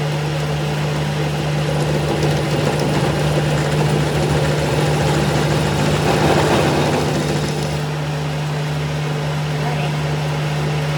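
Machinery running steadily with a constant low hum, growing louder and noisier for a moment about six seconds in.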